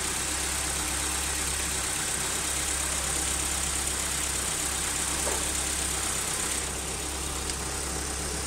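Suzuki Swift engine idling steadily, heard from inside the car. The engine is being run to check for compression leaking into the cooling system after a head gasket replacement.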